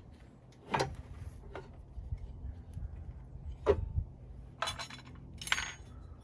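Hard objects clinking: two sharp single clinks, then two short clattering rattles near the end, over a faint low hum.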